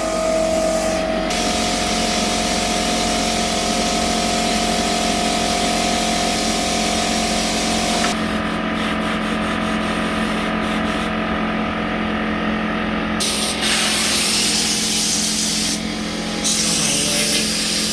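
Compressed air hissing from an air-compressor blow nozzle, blowing dust out of a computer, in long blasts that break off briefly about two-thirds of the way through and again near the end. A steady machine hum runs underneath.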